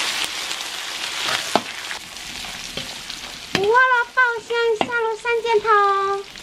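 Pork belly slices sizzling in hot oil in a wok, stirred with a metal ladle that knocks against the pan now and then. Midway, a run of six short pitched calls, the last one drawn out, comes in louder than the frying.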